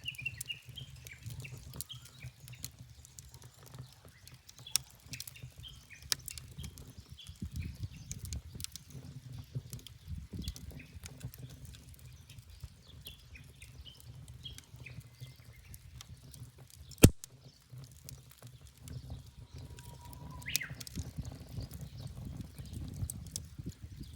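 Wood fire crackling in a pizza oven, with scattered sharp pops over a low rumble and one much louder pop about two-thirds of the way through. Wild birds chirp now and then.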